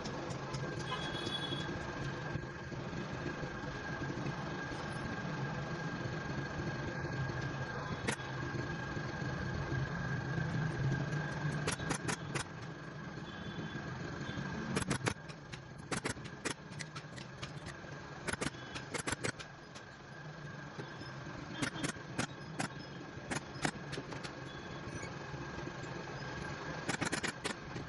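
Upholstery staple gun firing in quick runs of several shots, again and again, over a steady motor hum.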